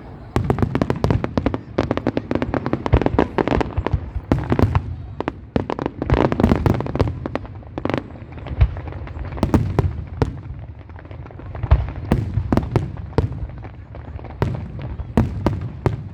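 Fireworks display: a dense, continuous run of sharp bangs and crackles, many overlapping, over a low rumble, with louder single reports every second or two.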